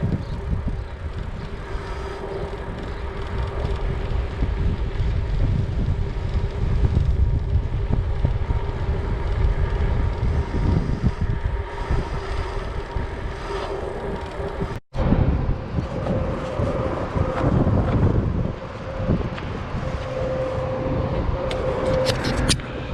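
Wind rushing over the microphone with road rumble while cycling, a dense steady noise that cuts out for an instant about fifteen seconds in.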